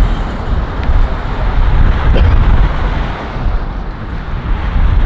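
Strong wind buffeting the microphone in a wind storm: a loud, gusting, low rumble.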